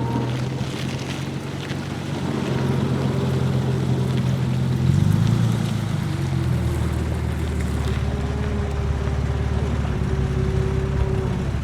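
Vintage car engine running steadily on the move, with wind and road noise on top. Its note drops to a lower pitch about halfway through.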